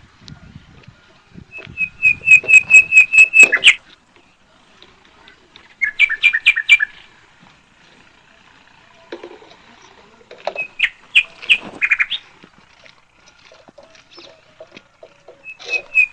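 A bird calling in loud bursts of rapid, sharp, high notes, about five or six to a second, repeated three times with pauses between.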